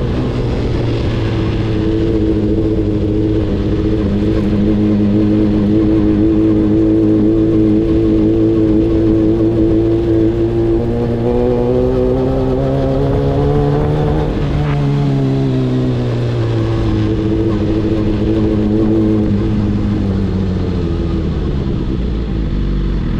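Sport motorcycle engine running under way. Its note climbs for a few seconds past the middle, breaks off sharply, then falls away as the bike slows.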